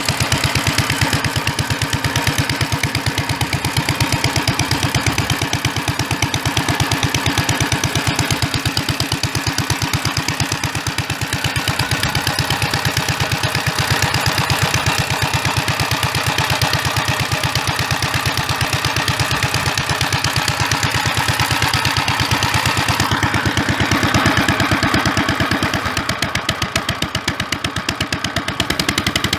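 Gravely Model L tractor engine running through a custom 'popper' exhaust, giving a steady stream of rapid, even pops, pop, pop, pop, in imitation of a John Deere 'johnny popper'. The beat swells a little and eases back near the end.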